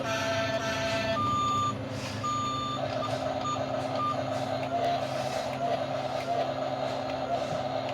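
Reversing beeps from a toy or remote-control JCB-style backhoe loader: a handful of short, evenly pitched beeps in the first half, over a steady hum, with a warbling electronic tone taking over for the rest.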